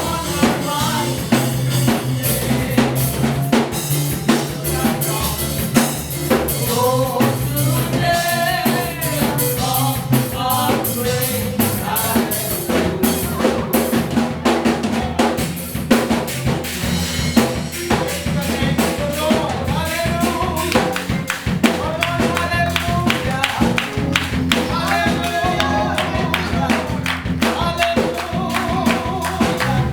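Live contemporary gospel worship music: a drum kit keeps a steady beat under bass and a sung melody.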